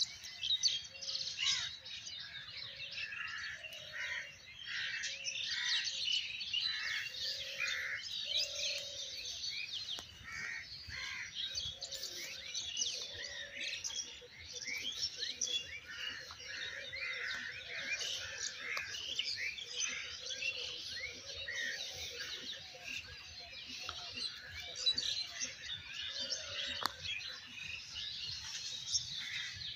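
Many birds chirping and calling at once, a dense chorus of quick high chirps throughout, with a lower call repeating underneath.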